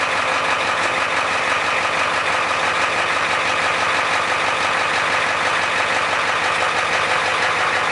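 Diesel pickup truck engine idling steadily from cold, with a fast even pulsing from the exhaust; it is running on a cold start with two bad glow plugs.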